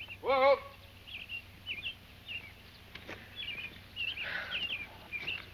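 Small songbirds chirping: short, high, quick notes repeated again and again, with a brief soft hiss about four seconds in.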